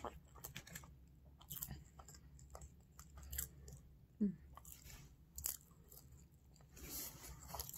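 Faint, close-up chewing and biting of fast food, with small crunches and wet mouth clicks. A short hummed "mm" comes about four seconds in.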